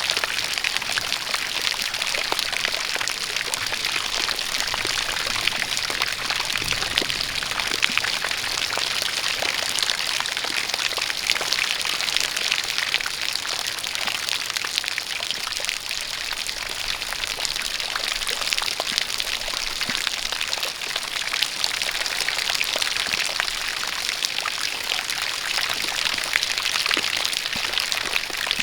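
Steady rain with a stream of water pouring: an even hiss dotted with many small drop ticks.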